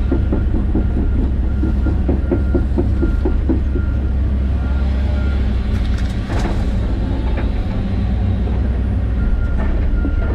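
John Deere 130G excavator's diesel engine and hydraulics running steadily under work, with a faint high tone pulsing on and off and a short burst of cracking about six seconds in.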